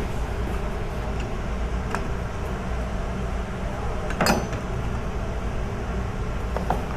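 Steady low background hum, with a faint tap about two seconds in and one sharp clink that rings briefly about four seconds in.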